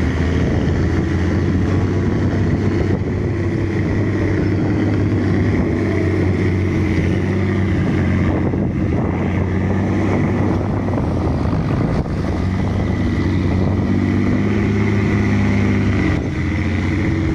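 Ten-wheel dump truck's diesel engine running hard and steadily under load as the truck pulls through soft mud.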